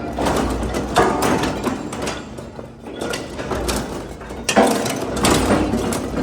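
Heavy-duty industrial shredder crushing engine blocks: irregular metallic clanks and crunching over the low steady hum of the machine's drive. The sharpest impacts come about a second in and again about four and a half seconds in.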